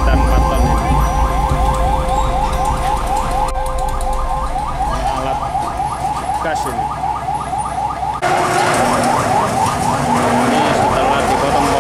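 Electronic vehicle siren giving a quick rising yelp about four times a second, over the rumble of traffic. The background changes abruptly about eight seconds in.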